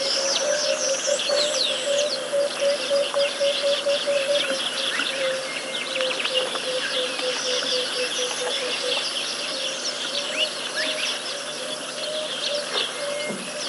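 Wild birds singing and calling: many quick chirps and whistles, over a low, steady, pulsing call that fades out about two-thirds of the way through.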